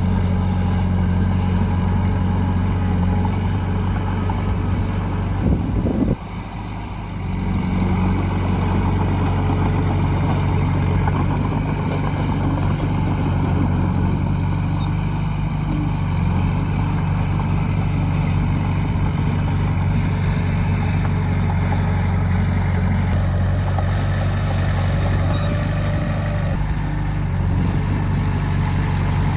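Heavy diesel engine of earthmoving machinery running steadily with a deep, even tone. The level dips briefly about six seconds in, then comes back up.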